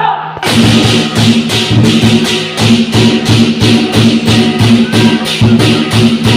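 Lion dance percussion: drum and clashing cymbals playing a fast, even beat of about four strokes a second over a sustained ringing tone. The playing breaks off briefly right at the start and picks up again about half a second in.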